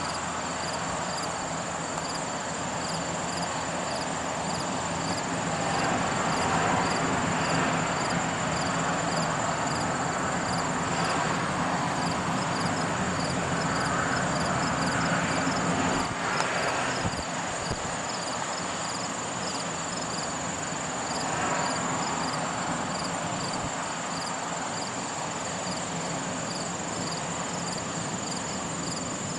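Insects chirping in a steady rhythm about once a second, over a continuous high, thin trill. Underneath is a rushing noise that swells and fades several times.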